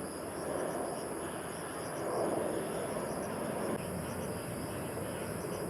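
Distant jet airliner's engines at takeoff power, a steady noise that swells slightly about two seconds in, with insects trilling in a constant high tone.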